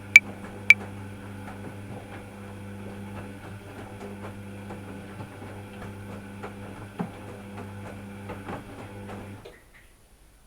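Washing machine running: a steady motor hum with irregular light clunks and rattles, which cuts off suddenly near the end. In the first second a metronome clicks twice at 110 beats a minute; these are the last beats of a 5/4 bar, and then the clicks stop.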